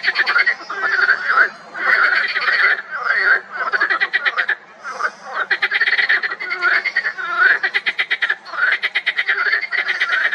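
A chorus of marsh frogs croaking loudly, several males overlapping in rapid pulsed calls of about a second each with short gaps between.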